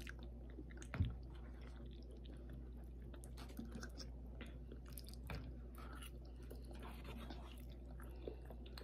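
Close, quiet chewing and mouth sounds of people eating, with many small clicks and a single louder knock about a second in.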